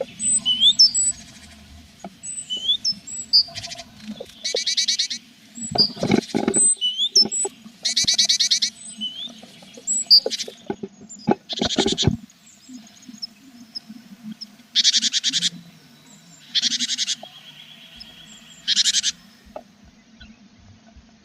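Tit nestlings in a nest box giving short, buzzy, rapidly pulsed calls in about seven bursts, with thin high chirps between them. A few sharp knocks and rustles come about six seconds and twelve seconds in.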